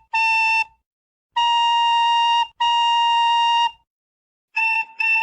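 A single-pitched whistle sounding a series of steady blasts: one short, two long, then two short.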